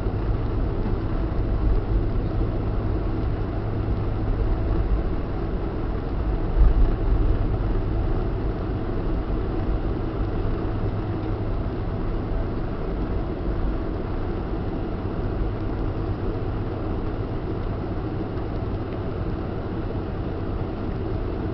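Boeing 747-400 cabin noise heard from a passenger seat: a steady low rumble of the engines and airframe, with a brief louder bump about seven seconds in.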